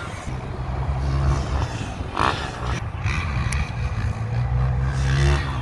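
Dirt bike engine running at a steady low speed, its pitch rising slightly near the end.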